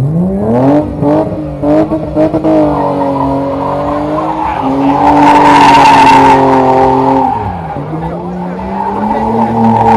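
BMW E30 engine revved hard: the revs climb steeply at the start with a few sharp cracks in the first couple of seconds, then hold high while the tyres squeal and skid. The revs drop briefly near the end and climb again.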